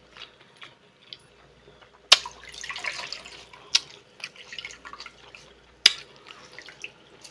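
Wet handling of a seafood boil in butter sauce: sauce dripping and squelching, with three sharp clicks, the loudest about two seconds in.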